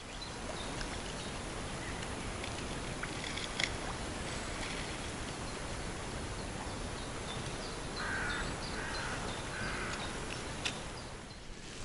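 A bird cawing three times, about eight seconds in, over a steady hiss of outdoor background noise with a few faint clicks.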